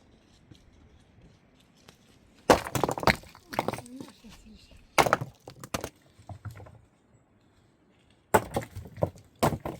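Irregular sharp knocks and cracks, coming in a few short clusters after a quiet start.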